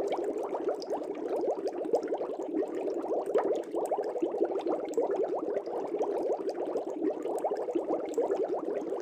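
Aquarium air bubbles streaming up through the water in a fish tank, a dense, steady burble of many small bubbles.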